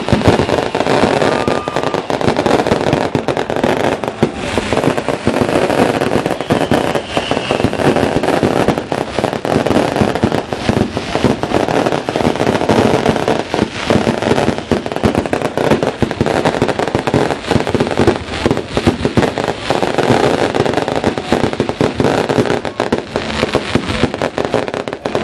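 Fireworks going off in a dense, continuous stream of rapid pops and crackles, like a long string of firecrackers, with no break.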